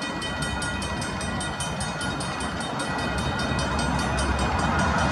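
A train approaching, its low rumble growing steadily louder. Over it a bell rings rapidly, about four strokes a second, in the way of a level-crossing warning bell.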